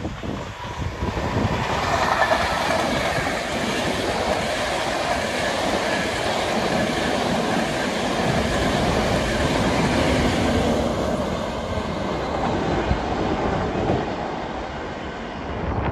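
Class 91 electric locomotive and Mark 4 coaches passing at speed: a steady, loud wheel-and-air noise that builds about two seconds in, holds as the coaches go by, and eases off near the end as the train draws away.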